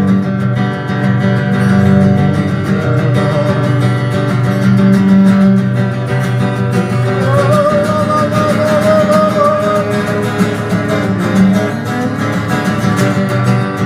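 Instrumental passage of a live acoustic song: guitar playing over a steady low bass line. A wavering sustained melody line enters in the middle and fades after a few seconds.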